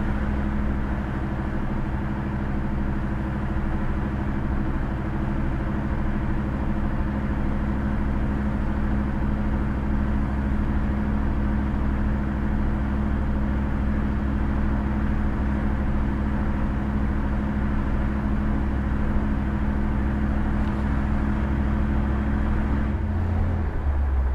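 Chevrolet 350 V8 heard through its dual exhaust from inside a 1962 Chevrolet Biscayne's cabin, cruising steadily at about 35 mph with a steady low drone. Near the end the engine note shifts lower.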